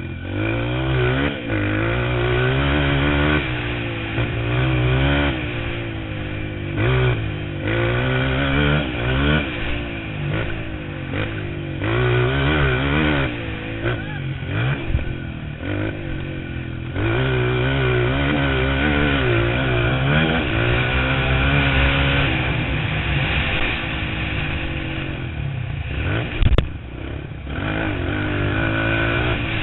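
Motocross dirt bike engines revving, the pitch climbing and dropping again and again as the throttle opens and closes through gear changes, over the steadier drone of other bikes. A sharp knock about 26 seconds in.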